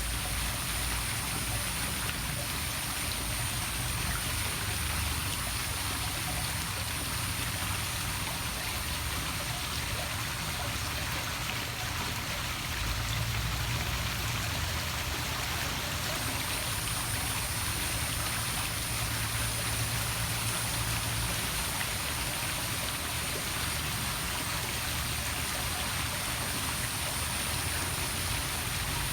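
Poolside waterfall splashing into a swimming pool: a steady, even rush of falling water. A steady high-pitched hiss runs over it and drops out for a few seconds in the middle.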